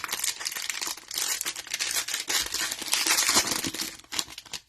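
Cellophane wrapper of a cello pack of trading cards being crinkled and torn open, a dense crackling that stops near the end.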